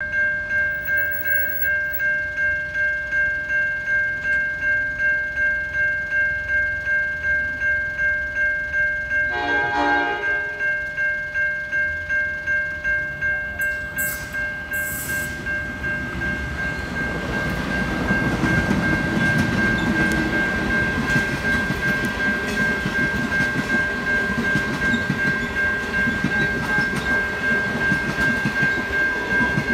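Level crossing bell ringing steadily, about two strokes a second. About ten seconds in, the approaching train's horn sounds one short blast. From about halfway, the Overland passenger train, hauled by NR class diesel locomotive NR99, runs through the crossing with a growing noise of wheels on rails under the bell.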